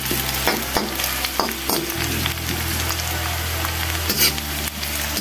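Sliced garlic sizzling in hot oil in a wok, with a steel spatula scraping and knocking against the pan several times as it is stirred.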